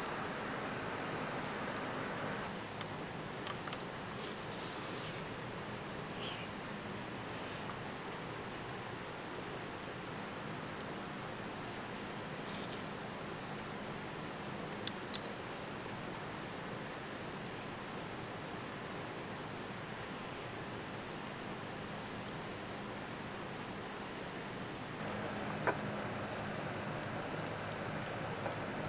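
A steady, high-pitched insect drone starting a couple of seconds in, over the even rush of a creek, with a few faint clicks.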